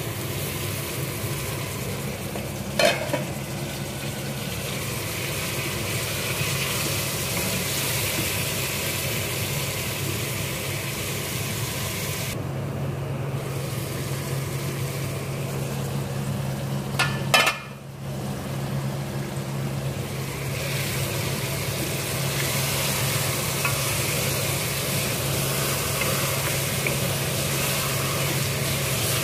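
Meat, onion and diced tomato frying in oil in an aluminium pot, a steady sizzle over a low hum. Two sharp knocks come about 3 seconds and about 17 seconds in.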